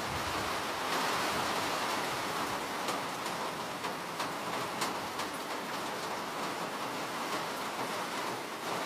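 Steady rain falling, a dense even hiss with a few sharper drop ticks near the middle.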